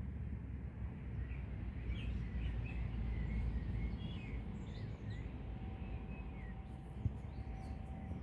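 Small birds chirping outdoors: a string of short chirps and quick twittering notes through the middle, over a steady low rumble of wind and distant background noise.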